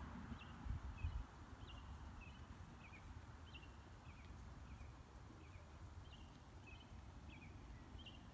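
Faint small birds chirping: short high chirps, two or three a second, over a low rumble that is strongest in the first second.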